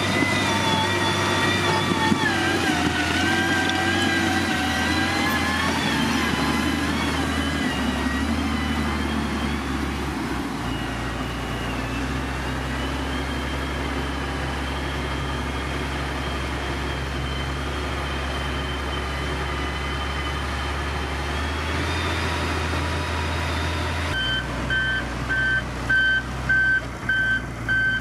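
Heavy road-construction machine's diesel engine running. Its pitch wavers under changing load for the first several seconds, then holds steady. Near the end, a reversing alarm starts beeping at an even pace, roughly one and a half beeps a second.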